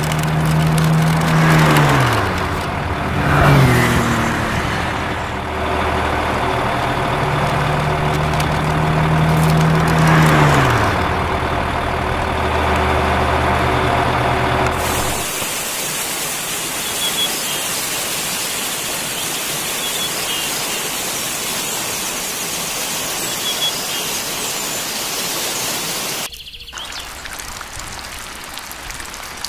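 A motor hums steadily and its pitch drops twice, about two seconds in and again about eleven seconds in. From about fifteen seconds in the hum gives way to a steady hiss.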